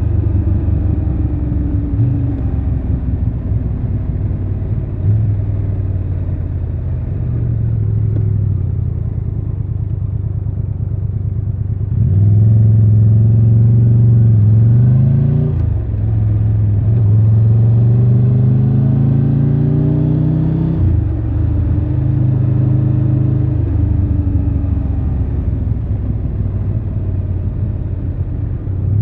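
Triumph Tiger 1200 Rally Pro's three-cylinder engine under way. It runs at a steady pitch for about twelve seconds, then accelerates with the pitch climbing. Brief breaks for gear changes come about 15 and 21 seconds in, with further climbs between them.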